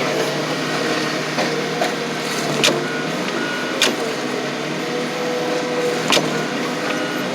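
Crushing machinery's engine running steadily while it crushes a Chevy pickup, with three sharp cracks as the truck body gives way, about two and a half, four and six seconds in.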